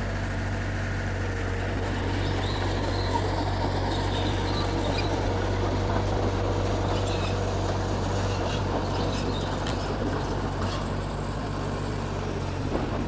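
A Mitsubishi bulldozer's diesel engine runs steadily with a constant low drone.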